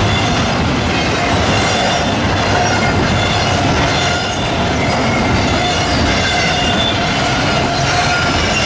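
Double-stack intermodal container train rolling past close by: a steady, loud noise of steel wheels on rail, with faint high ringing tones running through it.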